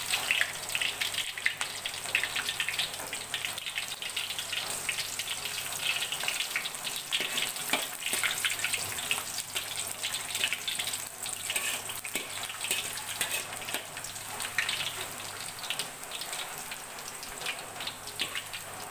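Chopped onion sizzling in hot oil in an aluminium wok, a steady fine crackle, with a few sharper clicks as a metal spatula is worked through it.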